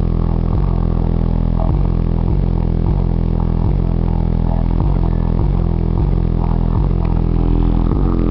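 Bass-heavy music played loud through a car audio system, a deep steady bass line with a beat a little under twice a second. The sound is muffled, with little above the low end.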